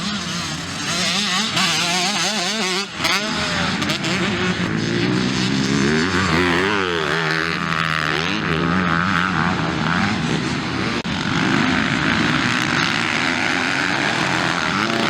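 Several motocross bikes racing, their engines revving up and down through gear changes as they pass, several engine notes overlapping with rising and falling pitch.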